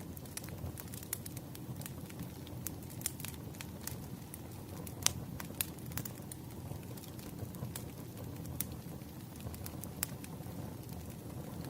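Fireplace fire crackling: a steady low rumble of flames with many irregular sharp pops and snaps, the loudest about five seconds in.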